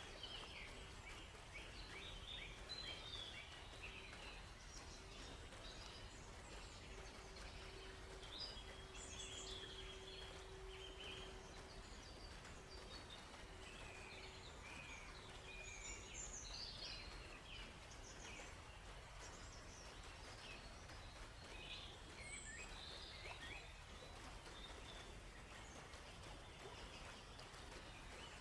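Several small songbirds chirping and trilling in short, scattered phrases over a faint, even background hush of forest ambience.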